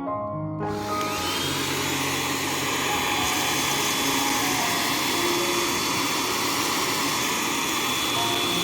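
Hair dryer switched on under a second in: the motor's whine rises briefly as it spins up, then it blows steadily. Background music plays underneath.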